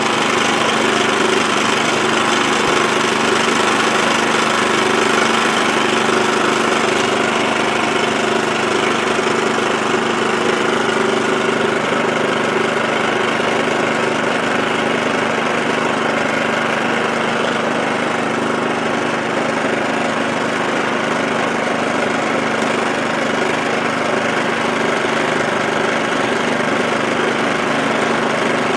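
WEN 56235i 2350-watt inverter generator running steadily on its small four-stroke engine, on a test run after a high-altitude conversion kit was fitted to its carburetor.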